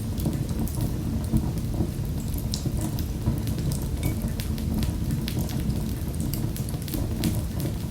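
Wood fire in a fireplace crackling: a steady low rumble with frequent, irregular sharp snaps and pops.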